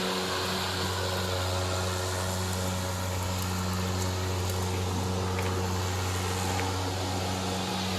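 EGO 56 V battery-powered lawn mower running under load, its blade motor giving a steady low hum over the rush of air and grass as it mows tall grass.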